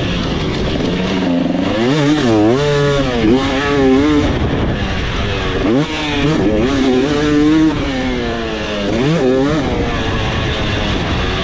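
KTM 300SX single-cylinder two-stroke dirt bike engine being ridden hard, its pitch climbing on the throttle and dropping off several times as the rider accelerates and backs off.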